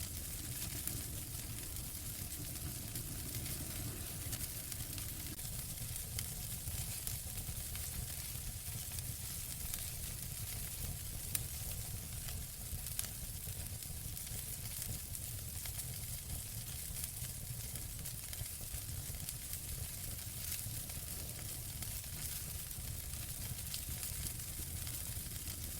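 Wood fire burning in a fireplace: a steady hiss and low rumble full of small crackles, with a couple of louder pops near the middle.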